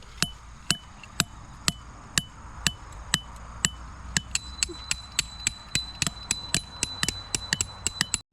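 Tent pegs being hammered into the ground: sharp metallic strikes, each with a short ring, about two a second at first. About halfway through they quicken to three or four a second, and a thin steady ringing tone joins them.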